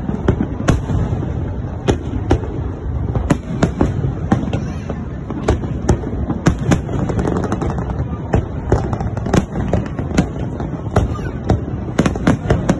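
Aerial fireworks display: many sharp bangs in quick, irregular succession over a continuous low rumble.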